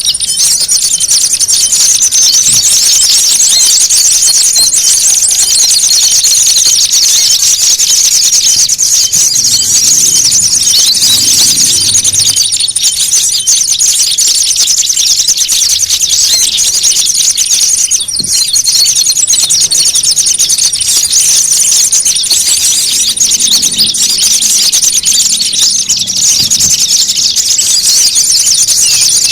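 Bird-trapping lure recording of many small songbirds calling at once: a loud, unbroken jumble of rapid, high-pitched chattering and scolding notes, made as a noisy fighting chorus to draw small birds in.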